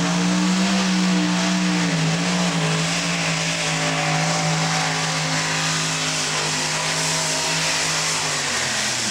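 Allison V-12 aircraft engine in a modified pulling tractor running at full power down the pulling track. Its pitch holds high with a small dip about two seconds in, then sags slowly, over a constant noise of spinning tires and dirt.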